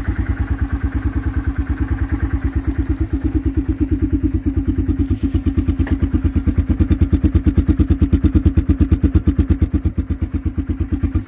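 2004 Yamaha Kodiak 450 ATV's single-cylinder engine idling in even, rhythmic pulses while it warms up after a cold start. It picks up a little, louder and quicker, about halfway through, then settles back near the end.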